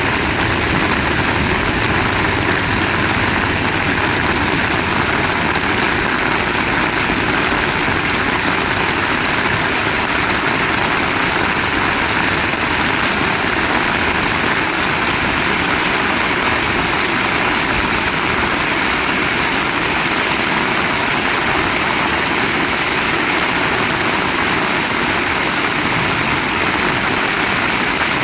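Heavy rain falling steadily: a continuous, even hiss that neither builds nor fades.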